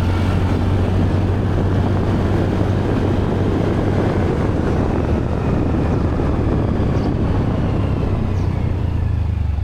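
Motorcycle engine running while riding, with heavy wind rush on the camera's built-in microphone; a steady low hum under dense noise.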